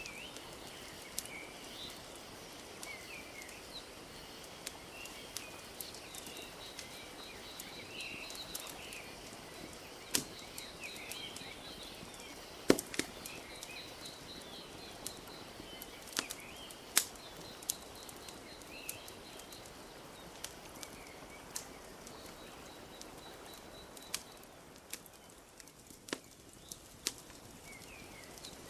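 Wood fire crackling, with irregular sharp pops, the loudest about thirteen seconds in. Beneath it, lake water laps steadily and small birds chirp and trill.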